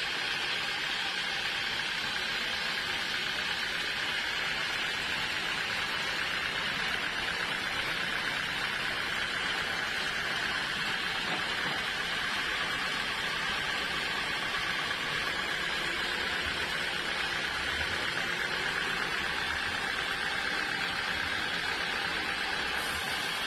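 Sawmill saw machinery running steadily: a continuous noisy whine with no breaks or knocks.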